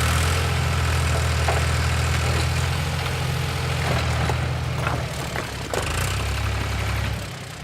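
Wheel loader's engine running steadily with a deep rumble, a few faint clicks over it, fading out near the end.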